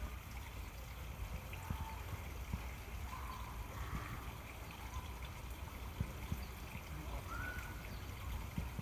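Steady trickle of running water at a pond, over a low rumble, with a few faint short chirps.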